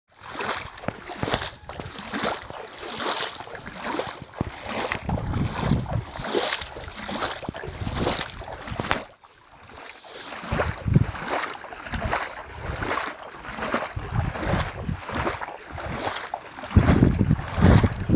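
Strong gusty wind rushing in uneven waves and buffeting the microphone, with a heavy low rumble of wind on the microphone near the end.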